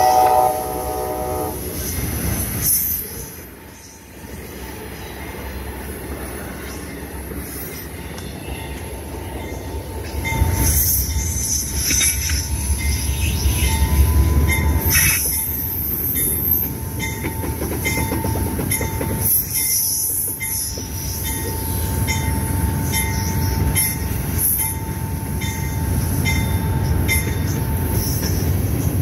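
Freight cars rolling past close by, a steady rumble with regular clacks of the wheels over the rail joints, while a passenger train arrives on the next track. A train horn sounds a short chord at the very start. From about ten seconds in until near the end, a thin steady high squeal from the wheels runs over the rumble.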